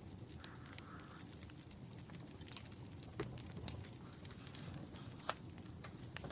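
Wood fire crackling: irregular sharp pops and snaps over a low, steady rumble of burning logs, with a few louder pops scattered through.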